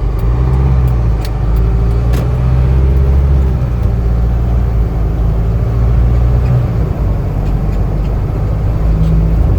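Inside the cab of a Hino 155 box truck on the move: its turbo-diesel engine runs with a steady low rumble under road and drivetrain noise, with a few light clicks and rattles.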